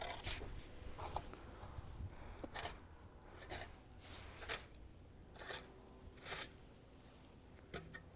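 Faint footsteps, about one step a second.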